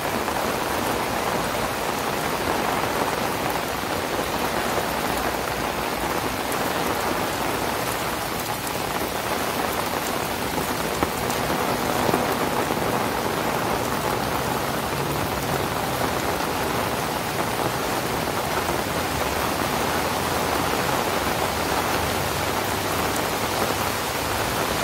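Heavy rain falling steadily on paved paths, grass and puddles.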